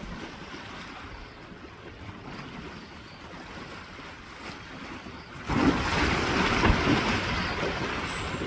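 Water churning and splashing, with wind noise on the microphone; it gets clearly louder about five and a half seconds in.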